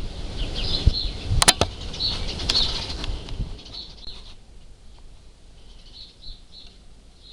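Small birds chirping in short calls in the background. Rustling and bumping noise through the first three seconds or so, with two sharp clicks about a second and a half in; after that only the chirps remain.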